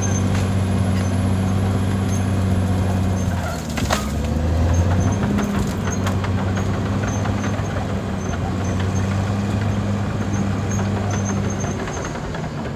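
Caterpillar D6R XL bulldozer's diesel engine running steadily, with scattered clanks and knocks. About four seconds in, the engine note briefly dips and shifts in pitch.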